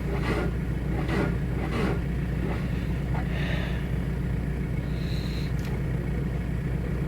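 Diesel car engine idling steadily just after a cold start, with a few short knocks in the first two seconds and two brief high tones later on.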